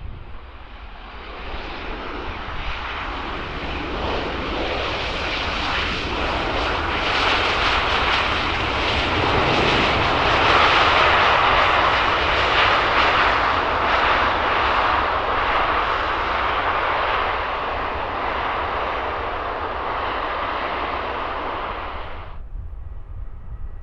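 Jet aircraft passing close on the runway, its engine noise building to a peak about halfway through, easing slightly, then cutting off abruptly near the end.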